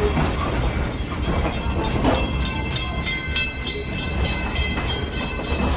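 Passenger train running along the rails, a steady low rumble of wheels and cars. About two seconds in, a high ringing tone and rapid clicking, several a second, join in and fade out near the end.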